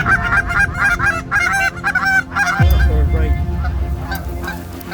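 A flock of geese honking, many overlapping calls at first that thin out in the second half, with a low rumble coming in about halfway through.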